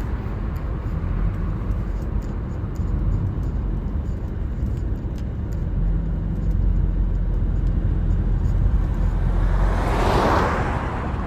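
Steady low road and engine rumble of a moving car, with another vehicle whooshing past about ten seconds in.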